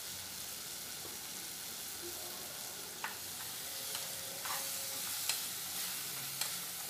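Onions, tomatoes and cashews frying in a nonstick pot with a steady sizzle. From about three seconds in, a spatula stirs the mixture and scrapes the pot, adding scattered clicks and scrapes.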